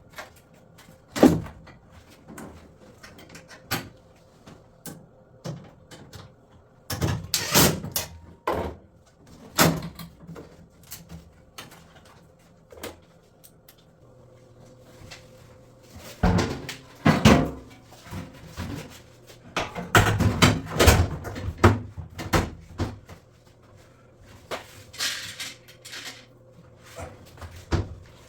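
Irregular knocks, clunks and clatter of drum-washer panels and parts being handled and fitted, with a sharp knock about a second in and busier stretches of rattling in the middle and later on. A faint steady hum sits underneath.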